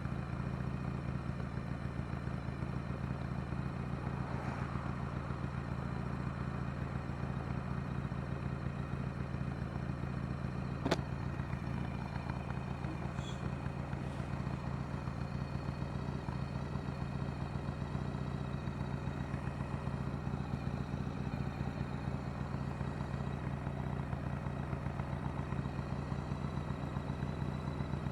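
1999 Harley-Davidson Night Train's air-cooled Evolution V-twin idling steadily after a cold start following months of storage. A single sharp click is heard about eleven seconds in.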